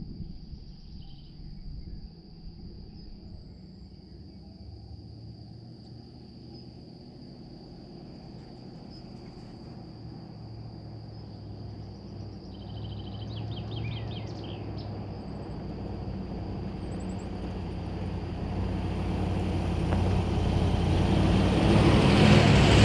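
Range Rover Classic's V8 engine approaching on a dirt track, faint at first and growing steadily louder until it is close and loud near the end. A steady high cricket trill runs behind it.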